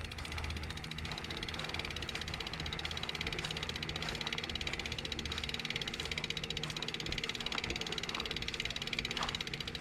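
Bicycle freewheel hub clicking, a rapid even ticking of the pawls as the wheel turns without pedalling, over low tyre and wind rumble.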